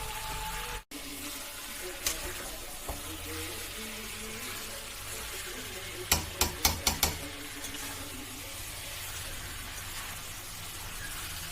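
Chicken masala curry sizzling as it fries in a pan, with a spoon knocking against the pan five or six times in quick succession between six and seven seconds in. Background music ends about a second in.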